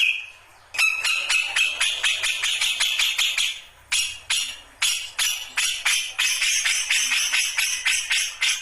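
Grey-cheeked bulbul (cucak jenggot) giving a rapid rattling chatter of about five short notes a second, with a short break a little under four seconds in.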